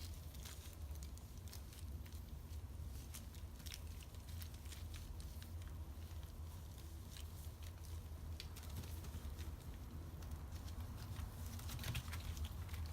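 A cat chewing and crunching food: scattered small irregular clicks over a steady low hum.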